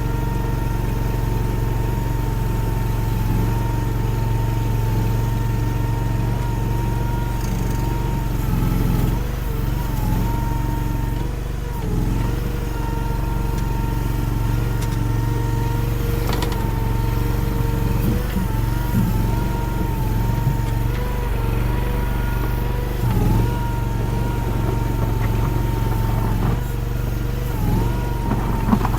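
Derette DRT450 mini skid steer's engine running steadily while it plows snow, with a high whine that sags briefly in pitch several times.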